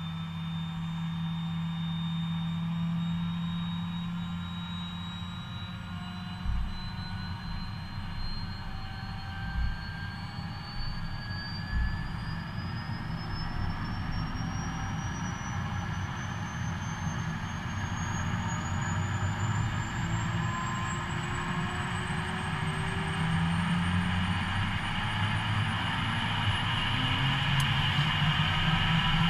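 Helicopter turbine engine starting up, its whine rising steadily in pitch as the rotor blades begin to turn, growing louder toward the end.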